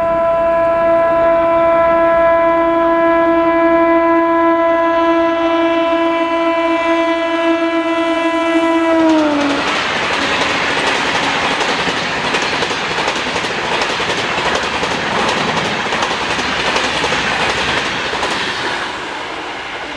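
Train passing at high speed. Its locomotive horn sounds one long held chord, which drops in pitch as the locomotive goes by about halfway through and then stops. The rushing roar and wheel clatter of the train passing close by follows and fades near the end.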